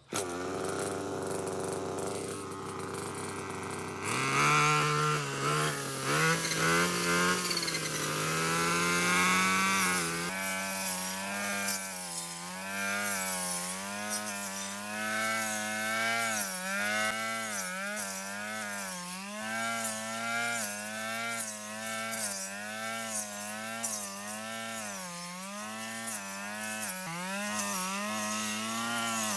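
Lawn mower's small petrol engine starting and running. Its speed picks up about four seconds in, then the pitch keeps swinging up and down every second or two.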